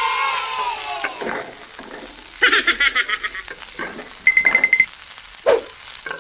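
Prawns frying in oil in a metal kadai, with a metal spatula scraping and knocking against the pan in short strokes. The loudest strokes are a rattling scrape about two and a half seconds in and a buzzing scrape just past four seconds. A falling pitched tone fades out in the first second.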